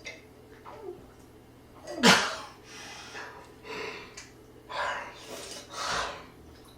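A person's sudden loud sneeze-like outburst about two seconds in, followed by several shorter breathy exhalations about a second apart.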